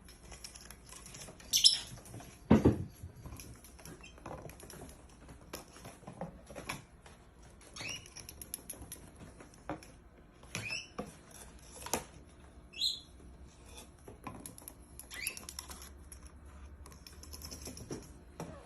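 Small bird giving short high chirps every few seconds amid scattered light taps and clicks, with one louder low thump about two and a half seconds in.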